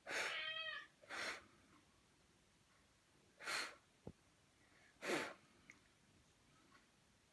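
A domestic cat meows once briefly. It is followed by three short breathy puffs a second or two apart.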